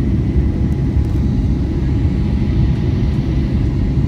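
Cabin noise inside an Airbus A320neo airliner: a steady low rumble of engines and airflow.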